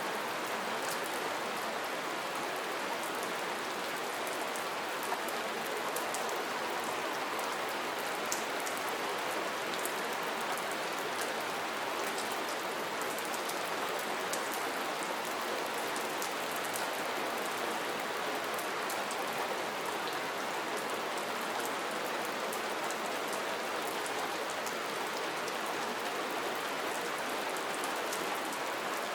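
Steady soft rain falling: an even hiss with many individual drops ticking sharply on top of it.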